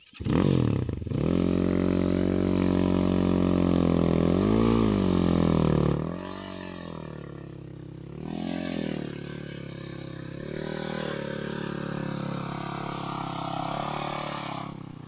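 Enduro motorcycle engine under throttle during a hill-climb attempt on a steep slope, the revs swinging up and down several times. Loud for about the first six seconds, then fainter.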